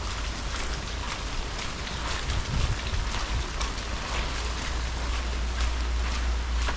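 Rain falling, with many separate drops striking close to the GoPro, over a steady low rumble of wind or surf on the microphone.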